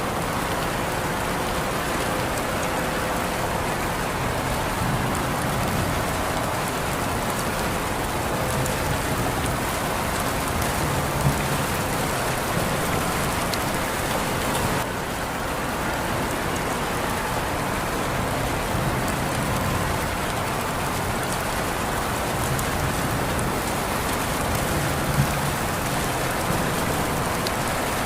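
Steady rain falling, an even hiss throughout, with a couple of sharper single drops standing out about eleven and twenty-five seconds in.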